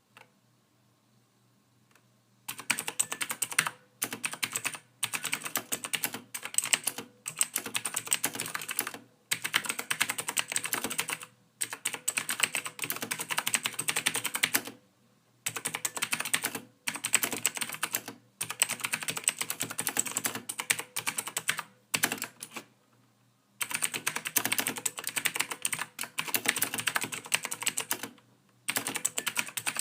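Typing on a computer keyboard: rapid keystrokes in bursts of one to a few seconds with short pauses between them, starting about two and a half seconds in.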